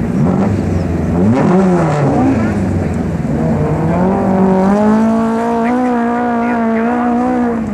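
Racing car's engine revving hard on the sand course. Its note rises and falls sharply through the first couple of seconds, then holds at a high, fairly steady pitch that climbs slightly before dropping near the end.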